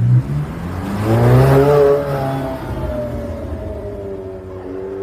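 A sports car's engine revs hard about a second in, then its note falls away steadily as the car pulls off.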